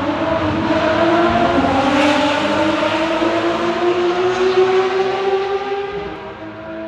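A combustion-engine vehicle passing by, loud, its engine note building and holding for several seconds before fading near the end.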